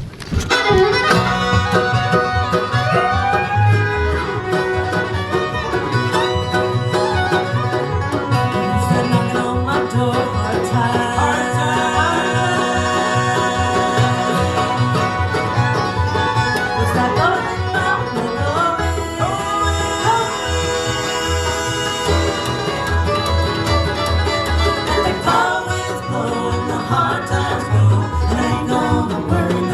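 Bluegrass band playing live: banjo picking over guitar, with steady plucked upright-bass notes underneath.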